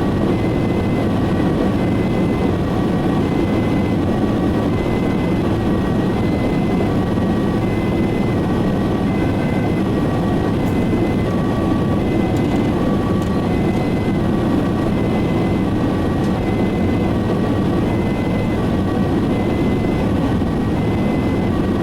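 Mercedes E-Class ambulance driving, heard inside the cab as steady road and engine noise. Its two-tone siren sounds fainter beneath it, alternating high and low about once every two seconds.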